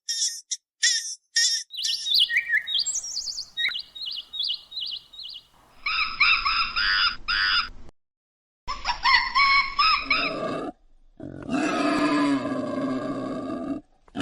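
Several short recordings of animal calls cut together. Rapid high chirps give way to a run of repeated falling calls, then louder calls with several tones at once, each clip ending abruptly.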